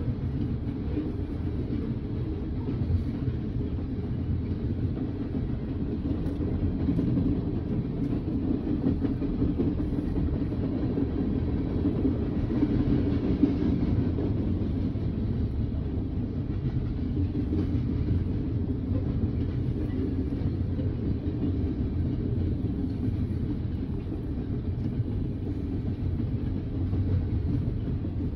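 Freight train of tank cars and covered hoppers rolling steadily past a grade crossing, a continuous low rumble of wheels on rail heard from inside a car's cabin.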